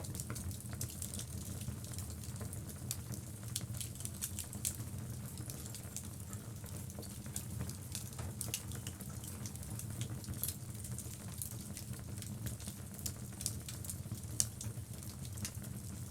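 Wood logs burning in a fireplace: irregular crackles and pops over a steady low rumble.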